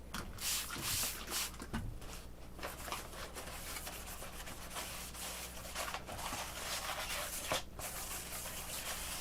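A towel rubbing dust off the foam surface of an RC airplane part, a steady scrubbing hiss with a few light knocks near the start.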